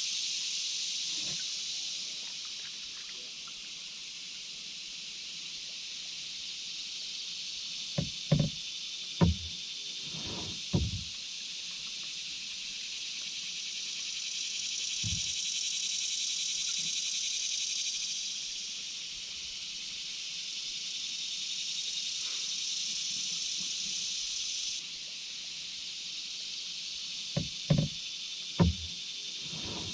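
A steady, high-pitched insect chorus that swells and fades. Hollow knocks of a paddle against the canoe hull stand out above it: a cluster of four or five about eight to eleven seconds in, a single one midway, and another cluster near the end.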